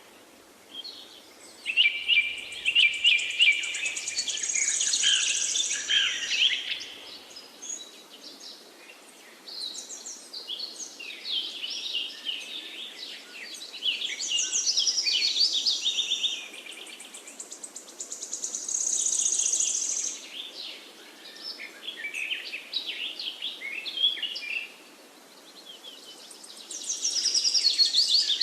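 Several songbirds singing and chirping together in a forest chorus, in bouts of rapid high trills and chirps a few seconds long with short quieter gaps between.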